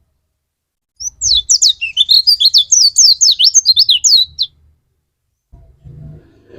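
White-eye (pleci) singing: a fast twittering run of high, quickly down-slurred notes lasting about three and a half seconds, starting about a second in. A low, muffled noise follows near the end.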